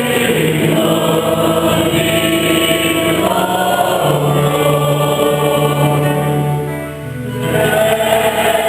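Church choir singing a Mass hymn in held, sustained notes, with a brief pause between phrases about seven seconds in.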